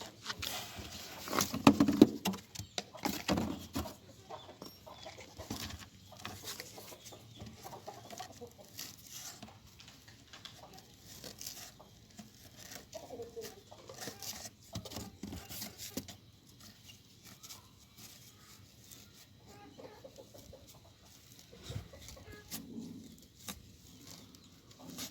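Birds making short, low calls at intervals, among scattered clicks and rustling, loudest in the first few seconds.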